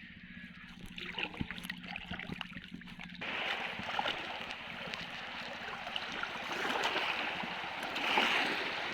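Shallow seawater splashing and washing while a drag net is hauled through the surf, with scattered knocks at first. About three seconds in, the sound changes abruptly to a denser, steady wash of water noise.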